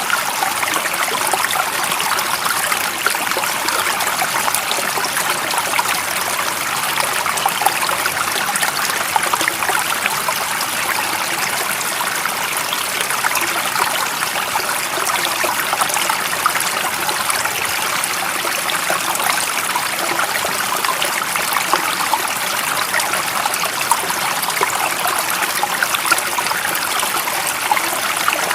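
A small stream's running water, a steady, even rushing and trickling.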